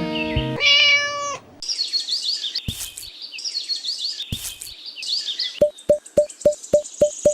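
Music ends, and a cat meows once, loudly. Then birds chirp and twitter, followed near the end by a rapid, even series of short pips, about four a second.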